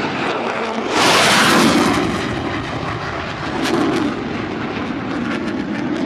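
Military jet aircraft flying past, a loud noisy engine roar that swells sharply about a second in, with a second, smaller surge near four seconds.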